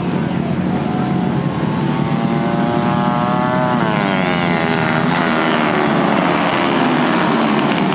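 Small 110 cc racing motorcycle engines running at high revs. One engine's pitch climbs for a couple of seconds, then drops steeply about four seconds in.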